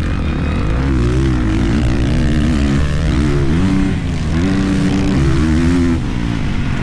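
Dirt bike engine under riding load, its pitch repeatedly rising and falling as the throttle opens and closes and gears change.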